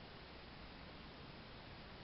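Near silence: a faint, steady hiss with a low rumble underneath and no distinct events.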